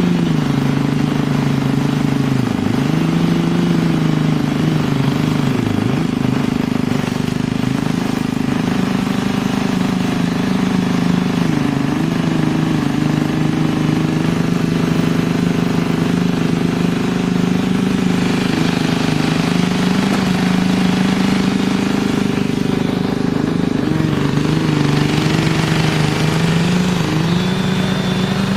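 An engine running steadily, its pitch dipping briefly several times as if it were taking load, with a harsher rattling noise building up for several seconds near the end.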